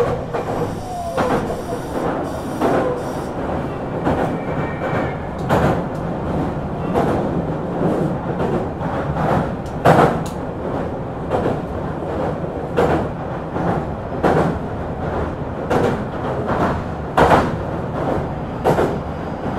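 Meitetsu 9500 series electric train running at a steady pace, heard inside the car: a continuous low rumble of wheels on rail, with a sharp clack about every second and a half as the wheels pass over rail joints.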